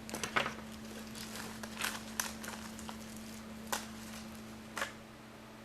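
Light irregular clicks and rustles as a string of LEDs is pulled free of a decorative Christmas ribbon, over a steady low hum.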